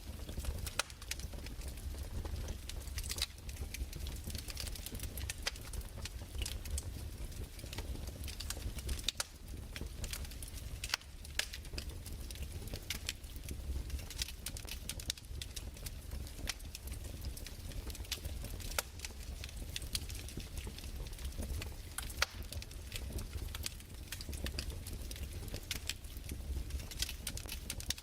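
Crackling wood fire: irregular sharp pops and snaps, several a second and some louder than others, over a low steady rumble.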